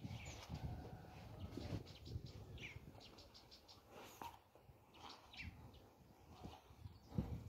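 Birds chirping faintly: quick trills of short high notes and a few brief downward-sweeping calls, over a low uneven rumble with a thump near the start and another near the end.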